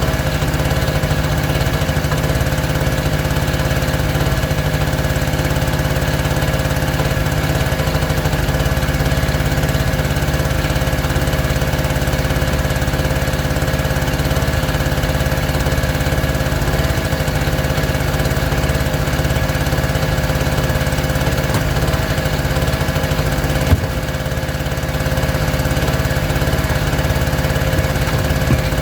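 A small engine running steadily at a constant speed, with one brief knock near the end.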